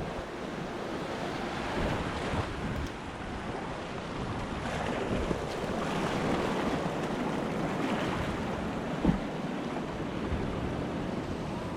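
Rushing whitewater of a rapid in a man-made whitewater channel, heard from a kayak, with wind buffeting the microphone. There is a single sharp knock about nine seconds in.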